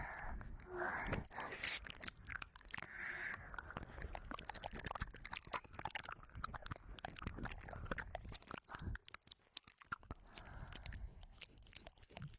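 Close-up wet mouth sounds and licking on the ear of a 3Dio binaural microphone: a dense run of quick wet clicks and smacks, with a few breathy puffs near the start, about three seconds in, and near the end.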